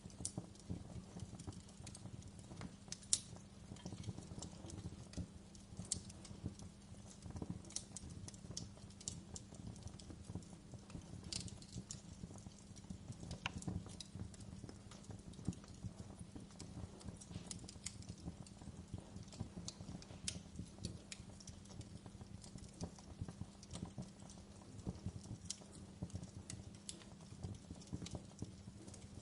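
Wood fire burning in a fireplace, crackling with irregular small pops over a low steady rumble, with one sharper pop about three seconds in.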